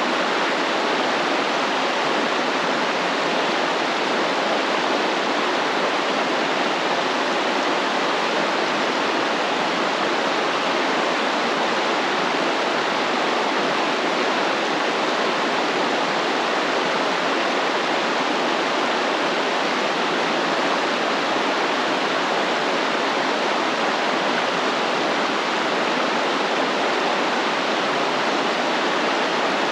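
Stream water flowing and splashing in a steady rushing noise, even in level, with no birds or other sounds standing out.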